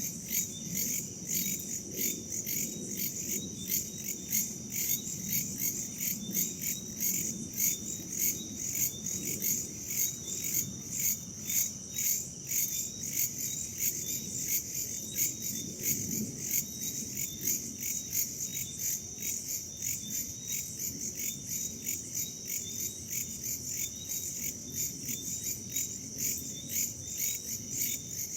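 Chorus of crickets and other insects: a steady high trill in fast, even pulses, over a low rumble of wind.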